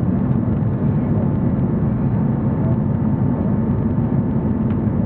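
Steady low drone of an Airbus A340-300's engines and airflow heard inside the passenger cabin during the approach to landing.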